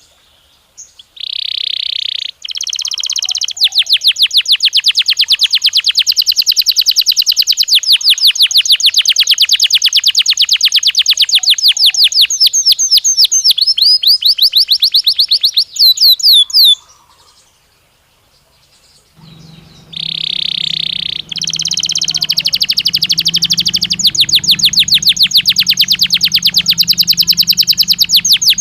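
Belgian canary singing two long song phrases. Each opens with a short buzzy note and runs into a very fast, rolling trill held for many seconds, with a pause of about two seconds between the phrases. A faint low hum comes in with the second phrase.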